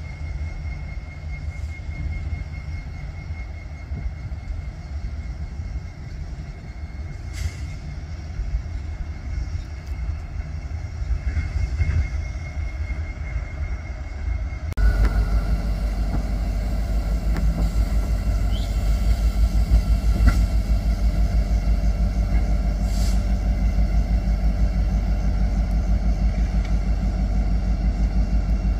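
Manifest freight train rolling past, a steady rumble of railcars on the rails that jumps abruptly louder about halfway through.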